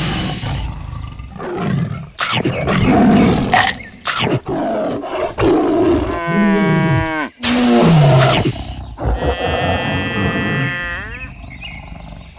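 Tiger roaring and growling in several loud bursts, with pitched calls that fall away about six seconds in and again near the end.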